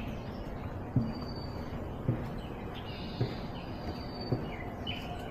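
Footsteps at an even walking pace, about one a second, over a steady outdoor hiss, with small birds chirping repeatedly.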